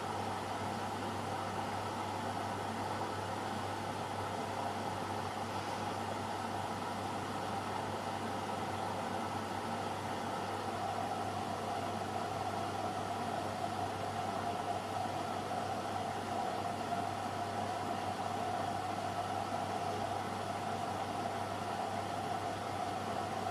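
AEG Lavamat Turbo washer-dryer running with a steady, even hum and whirr.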